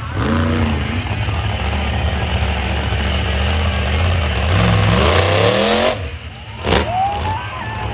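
Monster truck engine revving hard, its pitch climbing twice and then dropping off about six seconds in.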